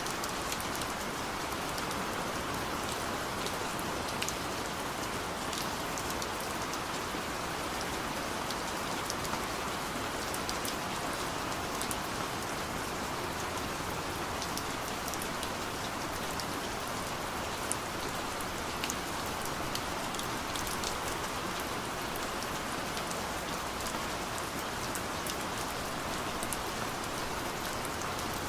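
Steady rain falling on a car's roof and windows, heard from inside the cabin, with many small drop ticks over an even hiss.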